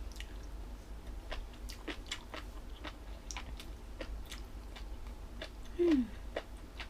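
Close-up chewing and crunching of crisp food (jellyfish salad and raw vegetables), with many short wet crunches. Just before the end a short hummed 'mm' from the eater, falling in pitch, is the loudest sound.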